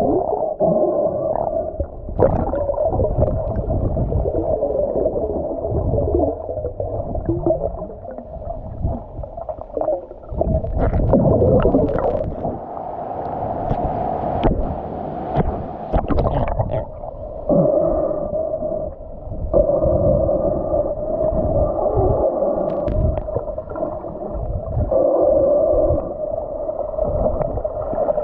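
Turbulent water below a weir heard through an underwater camera: a muffled, continuous rushing and gurgling, with a few sharp knocks along the way.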